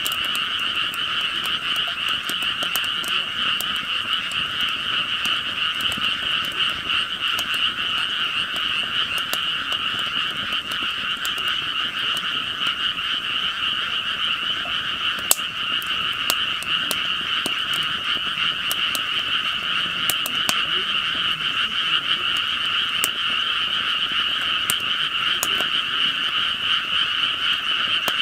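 A dense, steady frog chorus, with scattered sharp crackles from a wood fire burning in a camp fire-pit stove; one pop about halfway through is louder.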